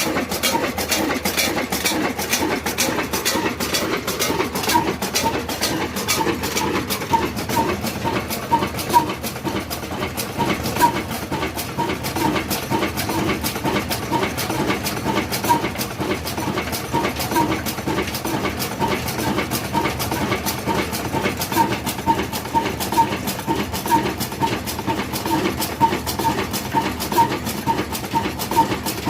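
Old stationary diesel engine running steadily, its strokes a fast, even clatter that repeats without a break.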